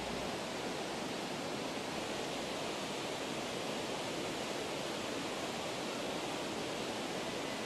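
Steady rush of falling or flowing water, an even noise with no breaks or changes.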